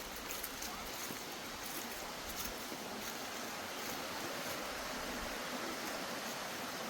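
Steady rushing of flowing forest stream water, an even hiss with no breaks.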